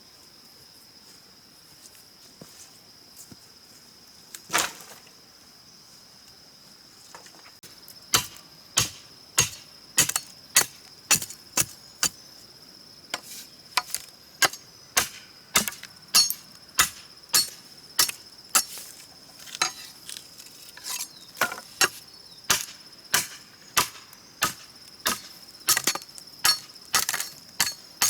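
A tool striking wood in steady repeated blows, about three every two seconds, starting about eight seconds in after a single blow a few seconds earlier. A steady high-pitched insect buzz runs underneath.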